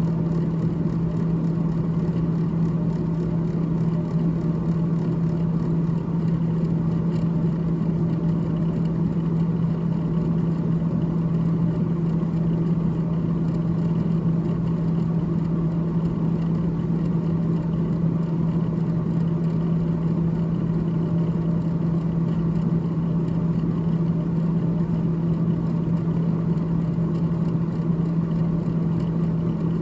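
Freezer fan of a GE GTH18XCTZRBB refrigerator running with a steady hum.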